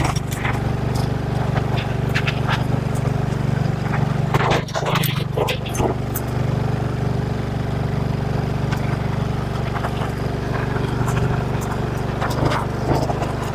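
Motorcycle engine running steadily under load on a steep climb, with stones and gravel crackling and clicking under the tyres. The worn rear tyre is losing traction on the loose surface.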